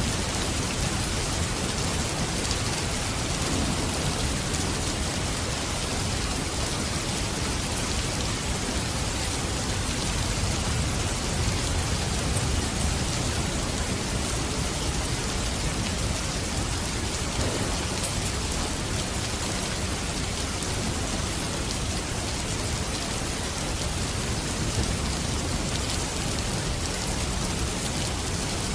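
Steady heavy rain falling on surfaces, an even hiss with scattered drop ticks and a low rumble underneath.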